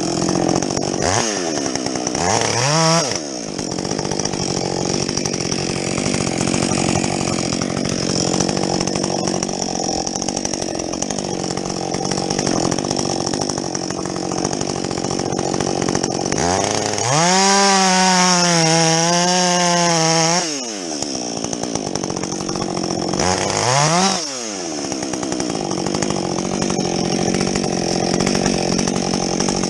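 Husqvarna 562XP two-stroke chainsaw with a modified muffler, running loaded as it cuts through a log. It revs up freely briefly about 2–3 s in, for a longer stretch from about 17 to 20 s, and once more near 24 s.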